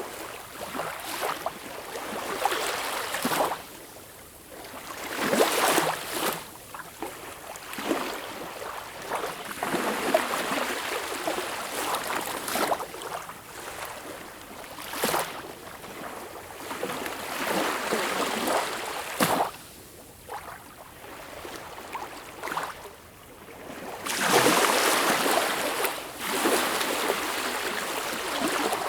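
Sea water washing in and draining back in irregular swells, with splashes and gurgles, which is typical of small waves breaking at the shore or against rocks.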